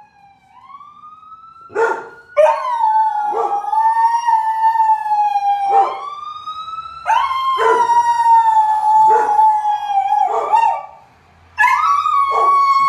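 Dog howling in three long notes, each rising quickly and then sinking slowly, broken by short sharp barks about once a second.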